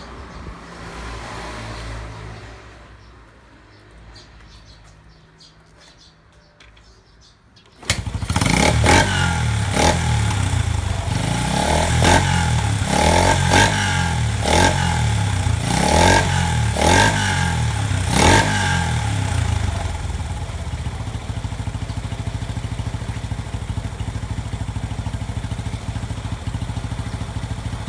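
Yamaha TW200's single-cylinder four-stroke engine catching suddenly about eight seconds in after a quiet start, then revved in a series of about eight short throttle blips before settling to a steady idle for the last several seconds.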